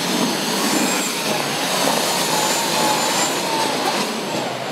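Pulling tractor's engine running hard and loud, a steady engine noise with a faint wavering whine over it.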